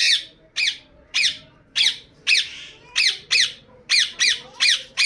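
Indian ringneck parakeet giving a rapid series of about eleven loud, shrill squawks, roughly two a second, each one sliding down in pitch.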